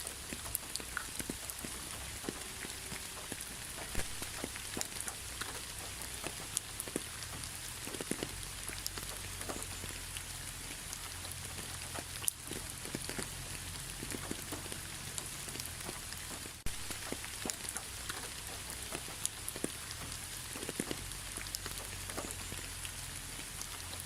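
Steady rain falling: an even hiss with scattered sharp ticks of single drops striking a surface.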